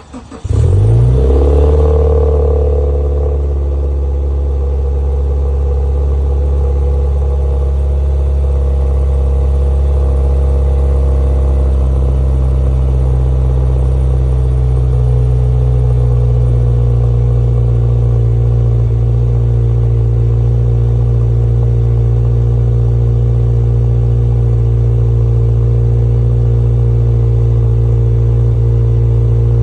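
2016 Subaru WRX's turbocharged 2.0-litre flat-four starting from cold: it catches about half a second in, the revs flare up, then it settles within a few seconds into a steady fast idle.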